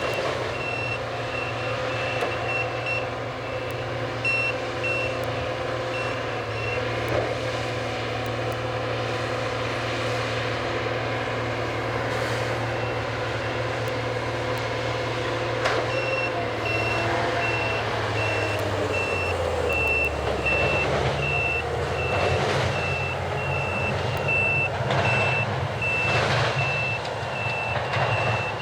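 Warning alarm on the track renewal train's moving gantry cranes beeping steadily over a running diesel engine, with scattered metal clanks. The beeping pauses in the middle and returns after about 16 s, and the engine note drops a little after about 19 s.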